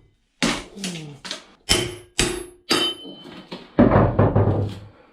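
Hand tools banging and chipping at the boat's fittings during demolition: a series of sharp knocks about two a second, some with a metallic ring, then a denser, louder run of banging about four seconds in.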